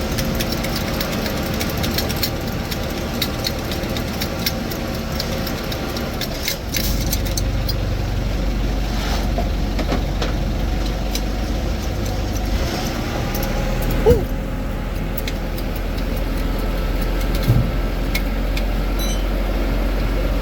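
Vehicle engine running steadily at idle, with a low hum that shifts in level a couple of times. A few light clicks sound over it, and there is one short knock about 14 seconds in.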